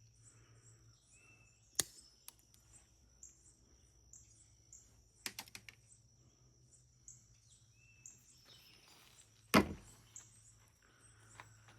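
Hand snips cutting, with a few sharp snaps: one early, a quick cluster in the middle, and the loudest near the end. A steady high chirping runs underneath.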